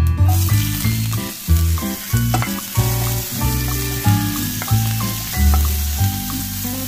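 Sliced onions, curry leaves and chillies sizzling in hot oil in a frying pan while being stirred with a spatula, with a steady hiss. Background music with a bass line plays over it.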